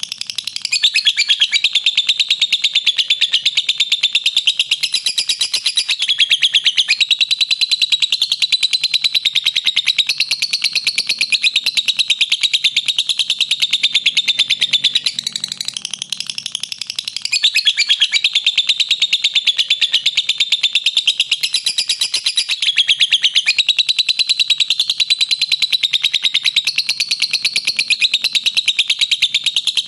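Lovebird "ngekek": a long, shrill, rapid chattering trill with many pulses packed into each second. It softens briefly about halfway through, then carries on just as before.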